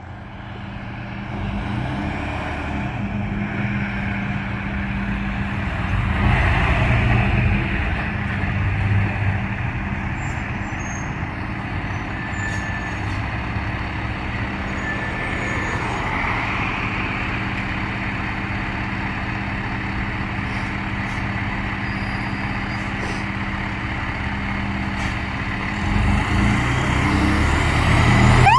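Heavy fire truck's diesel engine running steadily, with road noise and two louder swells along the way. The engine grows louder near the end, just before the siren starts.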